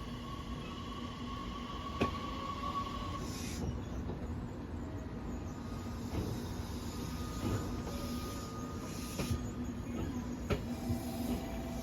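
Train running: a steady low rumble with a constant hum, broken by a few sharp knocks.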